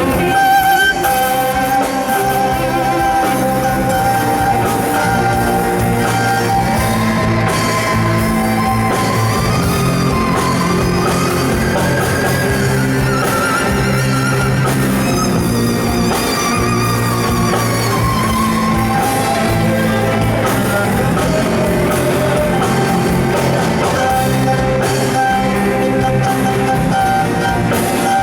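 A rock band playing an instrumental passage: a sustained, wavering lead melody over bass and drums.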